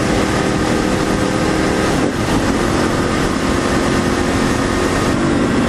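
Motorcycle being ridden at speed: wind rushing over the microphone with a steady engine hum, its pitch shifting about two seconds in.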